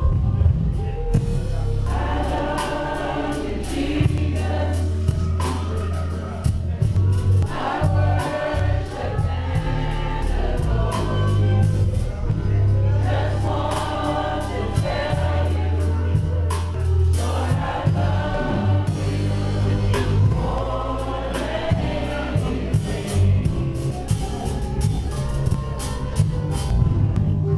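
Gospel choir singing in phrases over a band, with a heavy bass line and drum hits.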